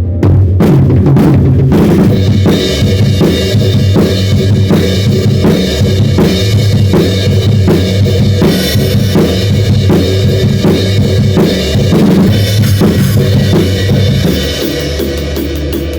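Drum kit playing a steady kick-and-snare beat over sustained band music in a worship song. The drumming eases off near the end.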